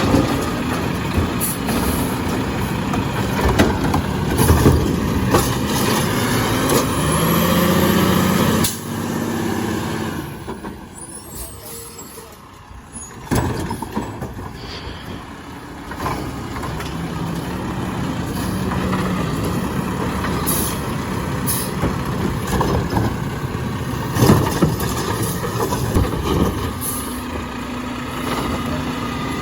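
Garbage truck running and working, with a steady engine sound and several sharp knocks. It goes quieter for a few seconds in the middle, then picks up again.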